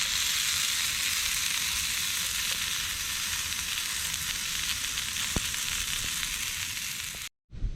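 Food frying with a steady sizzling hiss and faint crackles, which cuts off abruptly near the end.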